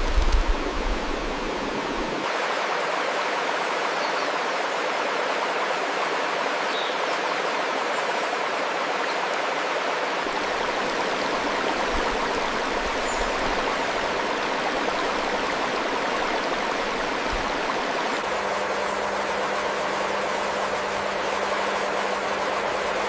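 Steady rushing noise, with a few low knocks at the start and a low steady hum joining about 18 seconds in.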